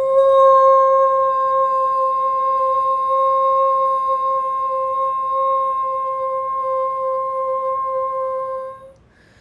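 A woman's voice toning: one steady, high, pure hum-like tone held without a break for about nine seconds, then stopping. It is the sustained vocal tone she likens to a singing bowl.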